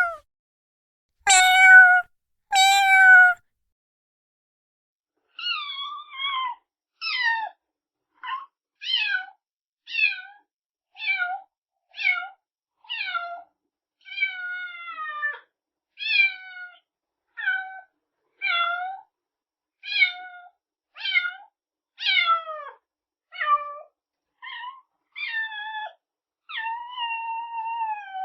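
A kitten meowing repeatedly in short, high calls that fall in pitch at the end. Two louder meows come first, then after a short pause about one meow a second, with a longer, steadier meow near the end.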